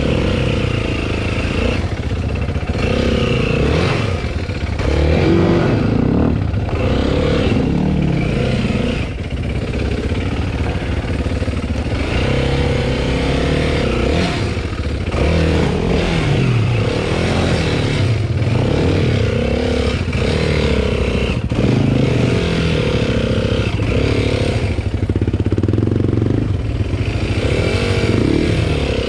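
Dirt bike engine revving up and falling back over and over, its pitch rising and dropping every second or two: the bike is stuck on a large rock in a rut and the rider is trying to power it out.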